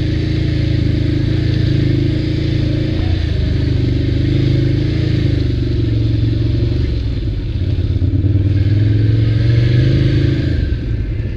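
ATV engine running under way, its pitch rising and falling as the throttle changes, louder for a couple of seconds near the end.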